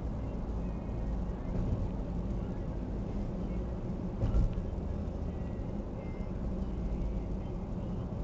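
Engine running with a steady low rumble, and a single knock about four seconds in.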